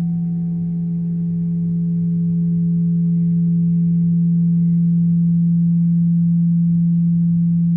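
A deep, steady ringing tone that holds evenly, with a few fainter overtones above it; a higher ringing overtone fades away about a second in.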